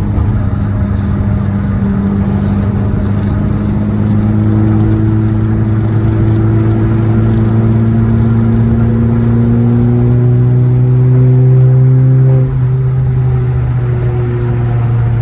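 Loud car engine held at raised revs, its pitch slowly climbing for about twelve seconds, then dropping suddenly as the throttle is let off.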